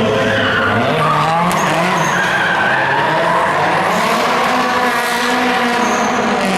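Car engine revving up and down repeatedly while the tyres squeal in a drift.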